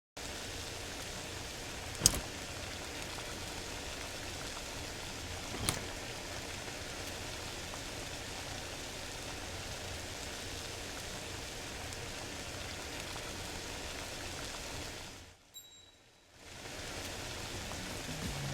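A steady hiss like rain, broken by two sharp cracks, a loud one about two seconds in and a fainter one near six seconds. The hiss cuts out for about a second near the end.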